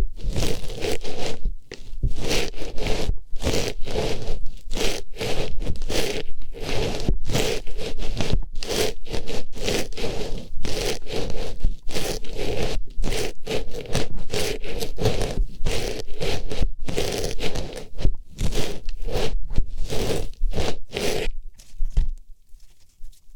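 Artificial flower pushed into and rubbed around inside an ear microphone, making rapid, repeated scratchy rustling strokes, a few a second, as ASMR ear-cleaning sounds. The strokes stop near the end.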